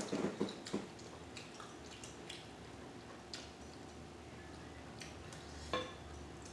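A person eating close to the microphone: wet chewing and mouth sounds, busiest in the first second, then scattered small clicks, with one short ringing tap a little before the end.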